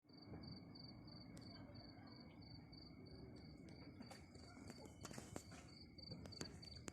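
Crickets chirping faintly in a steady, even pulse of about five chirps a second, with a few soft clicks scattered through.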